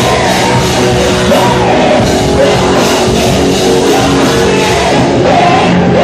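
A band playing loud rock music with singing, steady and continuous.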